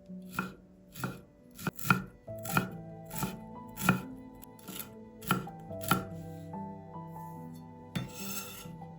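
Knife chopping food on a cutting board: about a dozen sharp, even strokes roughly twice a second, stopping about six seconds in. A short scraping rustle follows near the end.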